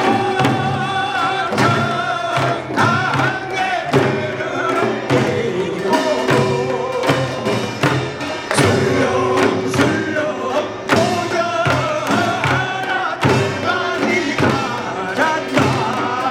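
Korean pungmul folk music in the sorigut style: singing and a taepyeongso shawm carry held, wavering melody notes over frequent, regular drum strokes.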